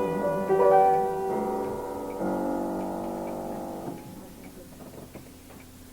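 Solo piano playing the closing notes of a song and ending on a held chord that is released about four seconds in. After that, a faint, steady ticking is left.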